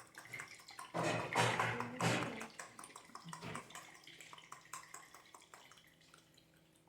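Olive oil in a hot frying pan sizzling, loud for about a second and a half about a second in, then dying down, with small crackles throughout.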